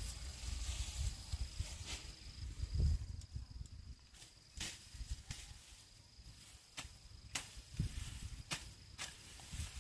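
Irregular sharp knocks or taps, roughly one every second, over low thumping handling noise, with a faint steady high-pitched whine in the background.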